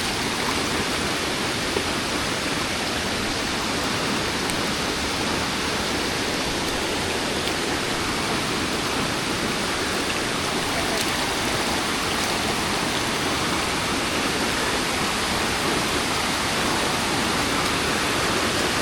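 Steady rush of water from a small creek and waterfall.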